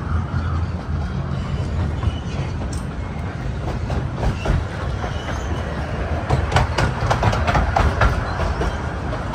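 Carriages of a 15-inch-gauge miniature steam railway running along the track: a steady low rumble, with the wheels clicking rapidly over the rail joints from about six seconds in.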